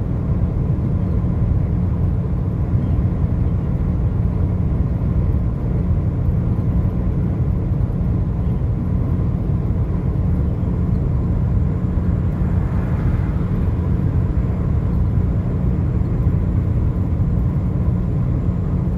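Car driving along a road: a steady, low rumble of road and engine noise.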